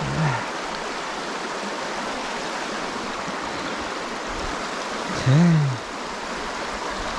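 Steady rushing of a freestone creek's current around the wader. Two short hummed voice sounds stand out, a faint one at the start and a louder one about five seconds in.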